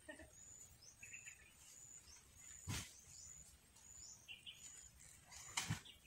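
Faint outdoor ambience with birds chirping: short high chirps repeating every half second or so, and two lower chirps about a second in and about four and a half seconds in. A dull thump about two and a half seconds in and two more near the end are the loudest sounds.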